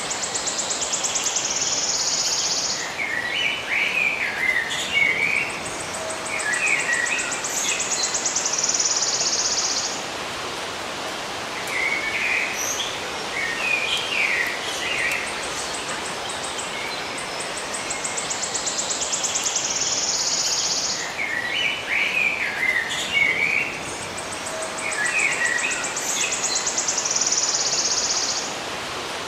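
Songbirds chirping in short clusters over a steady background hiss, with a high, fast buzzing trill a few seconds long that recurs. The same sequence repeats about every 17 seconds, as a looped recording does.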